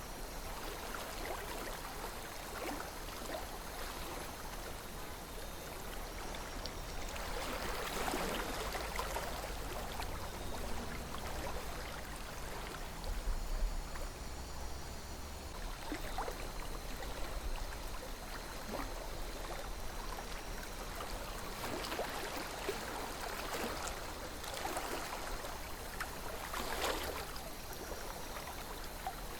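River water flowing and trickling steadily, swelling briefly a little over a quarter of the way in and again near the end.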